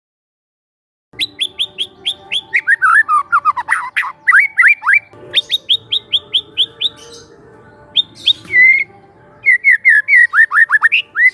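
Young wild white-rumped shama singing: after about a second of silence, loud phrases of rapid, sharp down-slurred whistled notes, several a second, broken by short pauses.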